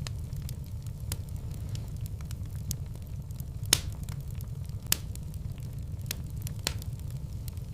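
Fireplace fire crackling: a steady low rumble of the flames with scattered sharp pops, two louder ones a little past the middle.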